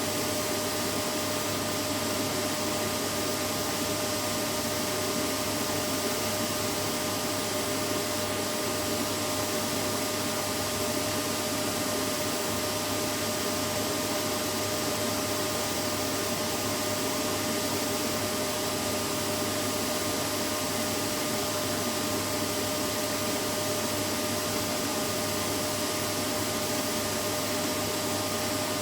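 Vacuum cleaner running steadily, a constant whooshing motor-and-airflow noise with a steady whine that never changes, played as a sleep aid for babies.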